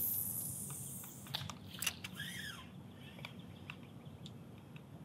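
A rush of high hiss for the first couple of seconds, with a few sharp clicks, and a short bird call that rises and falls about two seconds in. Faint ticks follow over a low outdoor rumble.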